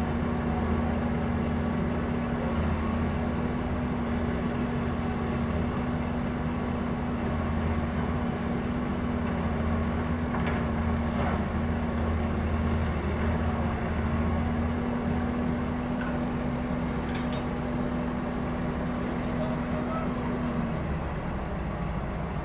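Heavy diesel vehicle engine running steadily, with a steady hum in it that drops out near the end.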